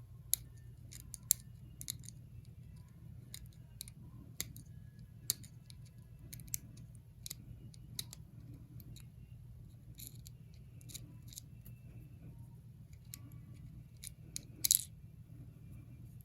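Small, sharp clicks and taps at irregular intervals, with a short louder cluster near the end, from small tools and watch parts being handled during a wristwatch battery change.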